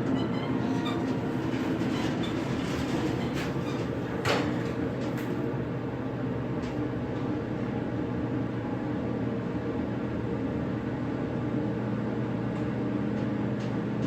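Subway-station escalator running, a steady mechanical hum with a few light clicks and one sharper knock about four seconds in.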